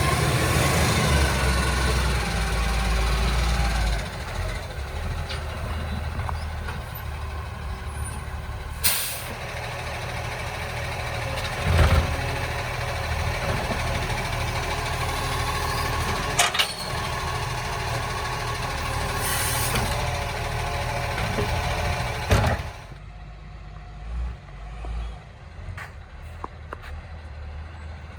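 Recycling garbage truck's engine running, with two sharp air-brake hisses about nine and nineteen seconds in and a few sharp knocks. The truck sound drops away and turns quieter for the last few seconds.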